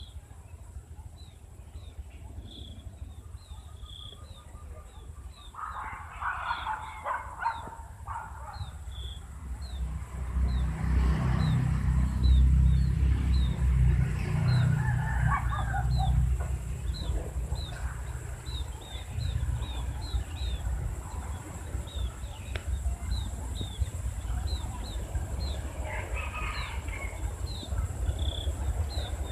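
Birds calling: a short high chirp repeated over and over, with fuller, busier calls breaking in now and then. A low rumble swells in about ten seconds in and eases off after a few seconds.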